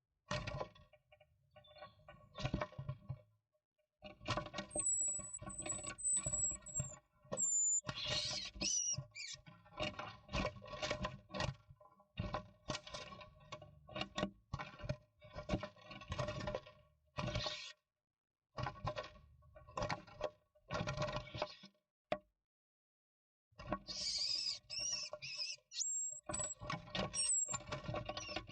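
Scratching, scuffling and knocking inside a wooden nestbox as a great spotted woodpecker reaches in through the entrance hole at a great tit, the two birds struggling at the hole, with a few thin, very high calls. The scuffles come in dense flurries with sudden breaks of silence.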